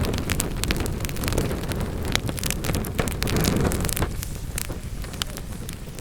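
Wood fire burning in a fireplace, crackling and popping in quick irregular snaps over a low rumbling roar of the flames. The rumble eases about two-thirds of the way through, leaving the crackles clearer.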